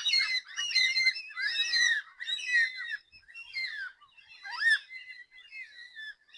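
A flock of black cockatoos calling: a busy run of overlapping, pitch-bending calls, about two a second.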